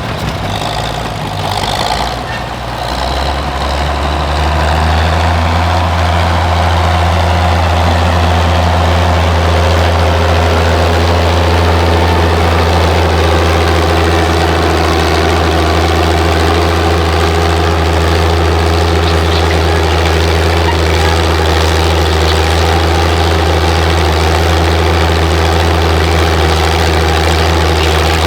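An engine running at a steady speed with a deep, even drone, louder from about three to four seconds in.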